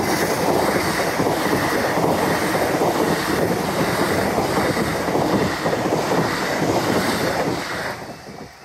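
Greater Anglia Class 720 electric multiple unit passing close by at speed over a level crossing: a loud, steady rush of wheels on rail and air. It fades shortly before the end as the last carriage clears.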